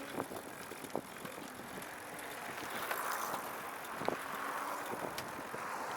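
Recumbent trike rolling along the road: steady tyre and wind noise with a few light clicks from the drivetrain.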